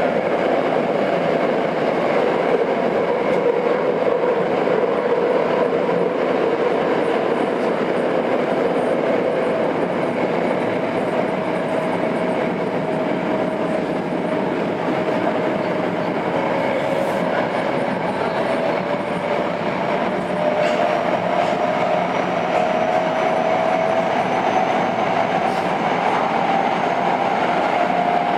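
Tokyo Metro 02 series subway train (IGBT inverter set) running between stations, heard from inside the car: steady wheel and rail noise with a tone that rises slowly in pitch through the second half.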